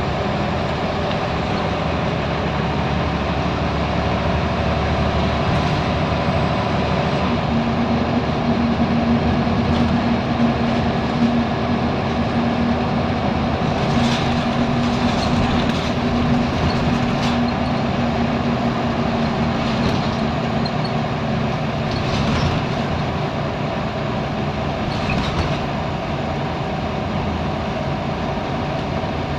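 Scania L94UB Wright Solar single-deck bus under way, its 9-litre diesel engine running with a steady drone. A strong hum rises above it from about a quarter of the way in until just past halfway, and several sharp rattles or knocks from the bus body come in the second half.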